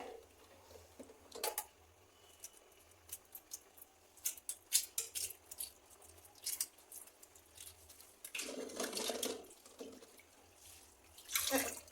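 Scattered light clicks and taps as freshly boiled eggs are handled among dishes and water, shells knocking, with a short muffled sound about eight and a half seconds in.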